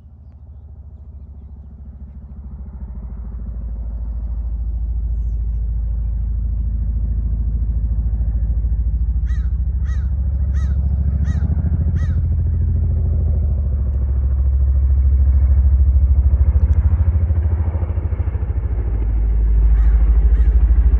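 Boeing CH-47 Chinook tandem-rotor helicopter, its rotors beating steadily, growing louder over the first few seconds and staying loud. Halfway through, a bird calls five times in quick succession over it.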